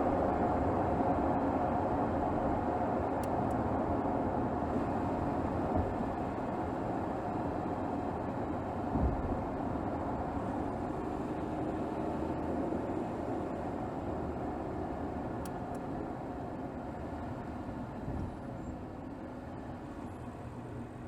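Mercedes GLS 450's 3.0-litre turbocharged inline-six, heard from under the bonnet, running while the car is driven in town, growing steadily quieter. There is a short low thump about nine seconds in.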